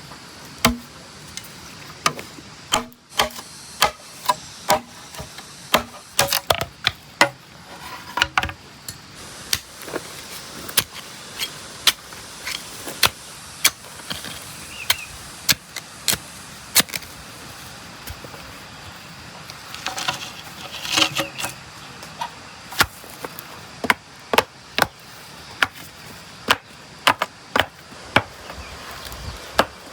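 Repeated sharp hammer strikes at an irregular pace, about one to three a second, over a steady hiss.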